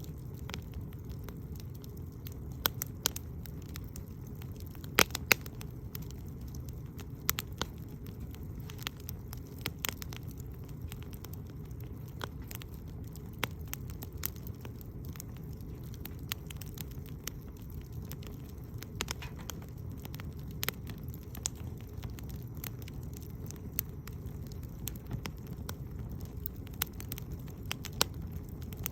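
Campfire firewood burning: irregular crackles and sharp pops over a steady low rumble, with a couple of louder pops about five seconds in.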